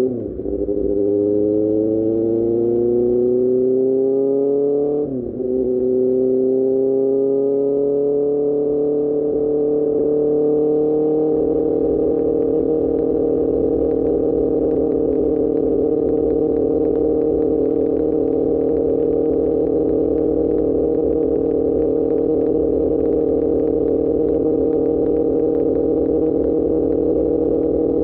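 QJMotor SRK600's inline-four engine through an Austin Racing exhaust, accelerating with a quick upshift just after the start and another about five seconds in. It then climbs more gently and settles into a steady cruise.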